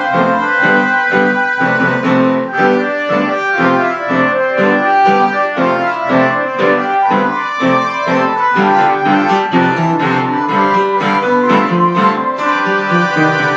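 Piano playing a lively piece in a steady rhythm, about three notes or chords a second.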